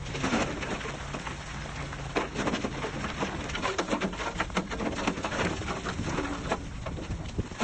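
Heavy diesel earthmoving machine running steadily, with irregular crackling and clattering of soil and rocks being moved, busiest in the middle of the stretch.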